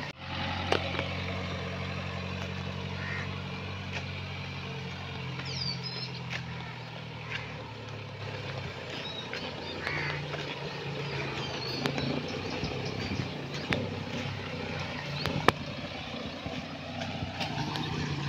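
Renault Duster AWD's diesel engine running at low revs as the SUV crawls over a rutted dirt track, with scattered clicks and knocks and one sharp click about fifteen seconds in.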